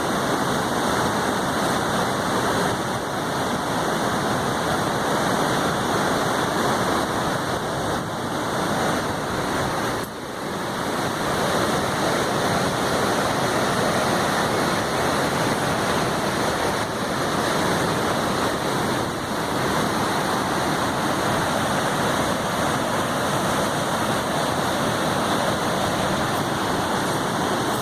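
Waterfall: a steady rush of falling water, with a brief dip in level about ten seconds in.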